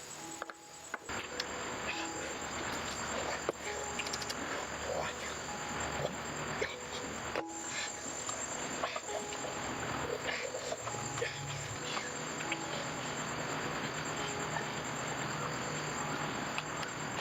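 Crickets trilling steadily at a high pitch, over a constant rustling background with scattered clicks and knocks.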